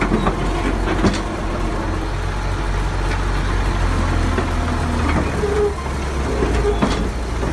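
Diesel engine of heavy farm machinery running steadily, with a few short knocks and clanks over it.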